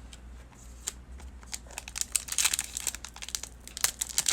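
A foil trading card pack wrapper being torn open and crinkled by hand, the crackling growing denser about halfway through.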